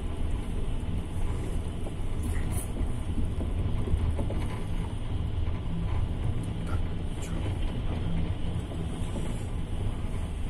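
Steady low rumble of a moving double-decker passenger train heard from inside the carriage: the wheels running on the rails.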